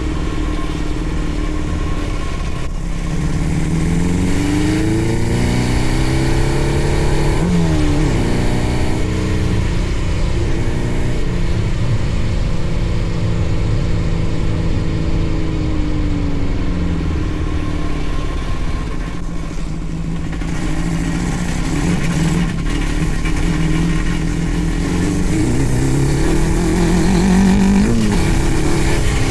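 600cc engine of a home-built Power Wheels kart running and being revved up and down, its pitch climbing a few seconds in and again near the end.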